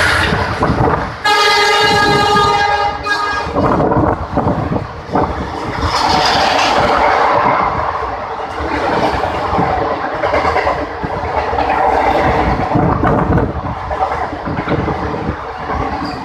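Indian Railways train passing at speed, wheels clattering over the rail joints, with one locomotive horn blast about a second in that lasts about two seconds.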